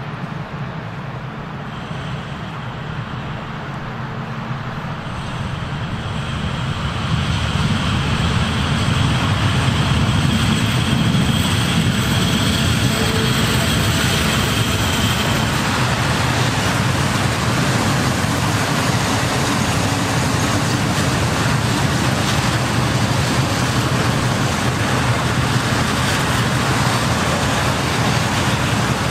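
Freight train hauled by a PKP Cargo electric locomotive approaching and passing with a long rake of open-top freight wagons. The sound builds over the first several seconds into a loud, steady rumble and rattle of wheels on the rails, which keeps on as the wagons roll by. A thin high whine fades out around the middle, once the locomotive has gone past.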